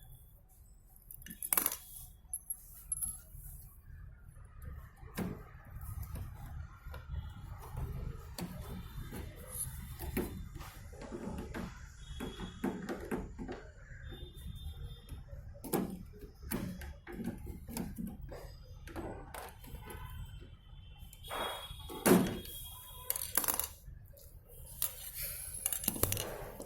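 Irregular clinks, clicks and knocks of tools, screws and metal panels being handled while a microwave oven is taken apart to reach its fan motor, with one sharper knock near the end.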